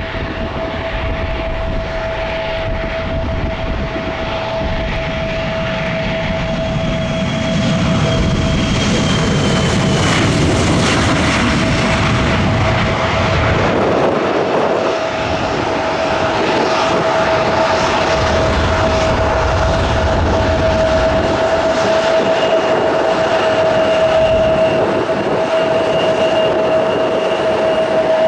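Airliner engines running at an airport, with a strong steady tone over a broad roar that grows louder about seven seconds in.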